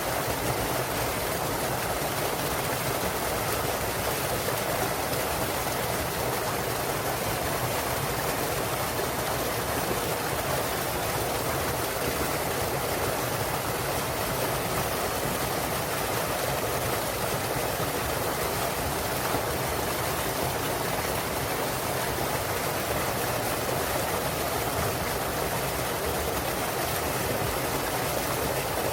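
Small waterfall in a mountain stream, water splashing and rushing steadily.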